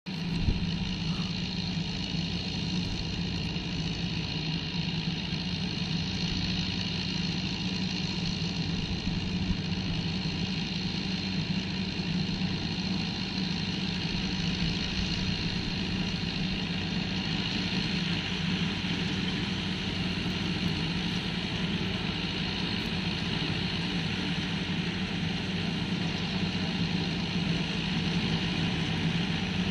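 Farmtrac 6065 tractor's diesel engine running steadily, an even low hum with no change in speed.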